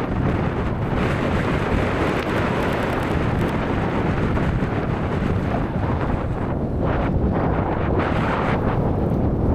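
Heavy wind buffeting the microphone over an off-road vehicle's engine working through deep snow, a steady dense rumble throughout.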